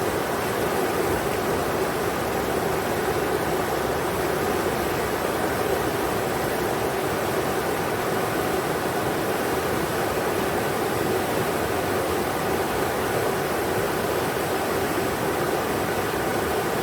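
River water rushing steadily over rocks, a constant even rush of white-noise-like sound.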